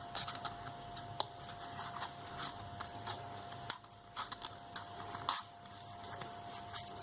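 Paper rustling and crinkling in short, irregular bursts with light taps as a paper strip is handled, pushed through a slit in a paper circle and folded over. A faint steady hum runs underneath.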